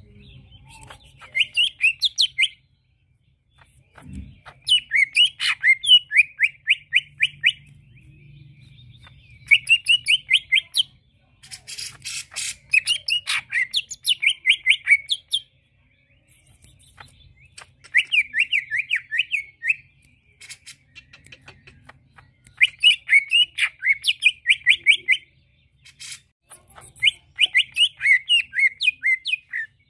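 Green leafbird (cucak ijo) singing in repeated runs of fast, rapidly repeated notes, each run one to three seconds long with short pauses between. About twelve seconds in, a harsher, raspy burst comes in with the song.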